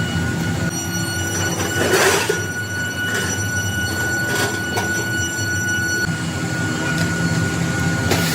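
A metalworking machine tool running with a steady high whine over a low hum, with a few short scraping or knocking noises: one about two seconds in, more around three and four to five seconds in, and one at the very end.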